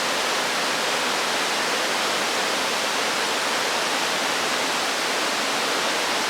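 Steady rushing of a large waterfall, water pouring and splashing without a break.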